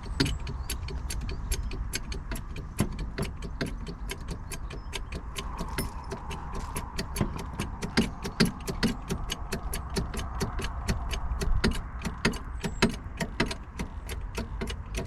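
A ratchet clicking steadily, about four sharp metallic clicks a second, as a tool or jack is worked during a front brake job on a motorhome.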